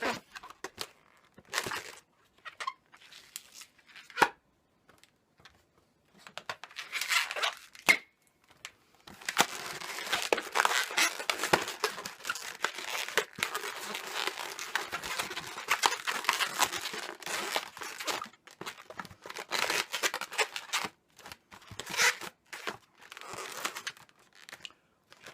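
Latex modelling balloons rubbing and crinkling as they are twisted and worked by hand, in short irregular bursts with a longer unbroken stretch in the middle.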